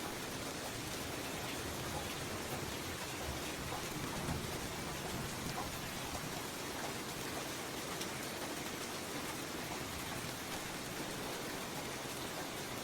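Steady light rain: an even hiss with scattered fine drop ticks, and a brief low rumble about four seconds in.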